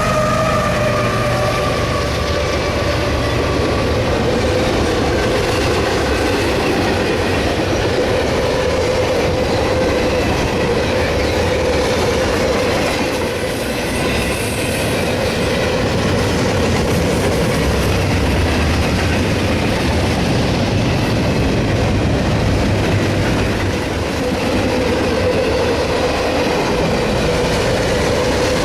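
Freight train cars rolling past on the rails: continuous wheel and rail noise with a clickety-clack and a steady squeal from the wheels.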